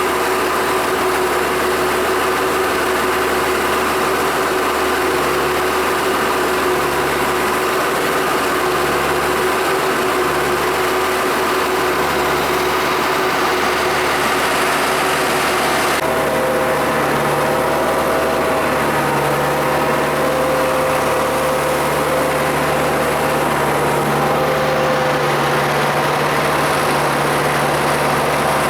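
Tractor diesel engine running steadily, with a change in its tone about halfway through.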